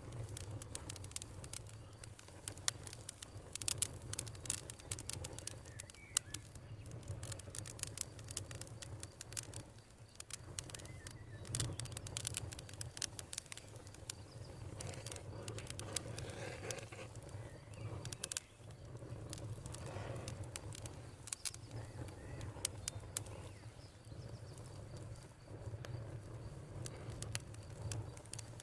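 Campfire crackling, with many irregular sharp pops and snaps over a steady low rumble. A faint steady high trill, typical of crickets, runs beneath.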